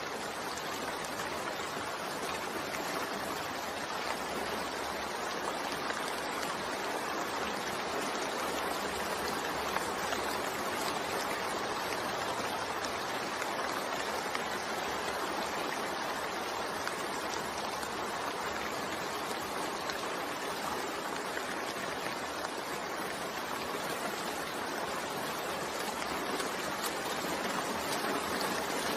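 Steady rain falling, an even continuous hiss of rainfall.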